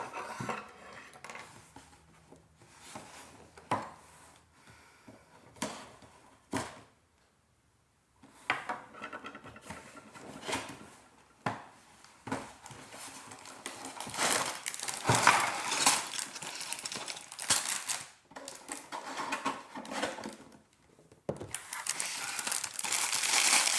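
A Lego set's cardboard box being opened and unpacked by hand: irregular clicks and knocks of cardboard, and sealed plastic bags of Lego bricks rattling and crinkling. The handling gets busier and noisier in the second half.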